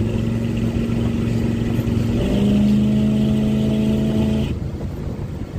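The 1965 Chevy C20 pickup's 454 big-block V8 running, with a steady engine tone that shifts slightly about two seconds in. About four and a half seconds in the steady tone gives way to a rougher, noisier rumble.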